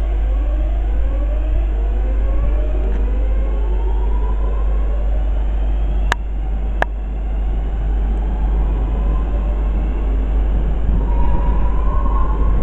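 A train accelerating at a station: a motor whine in several tones climbs steadily in pitch over a steady rumble, with another rising whine near the end. Two sharp clicks sound about six and seven seconds in.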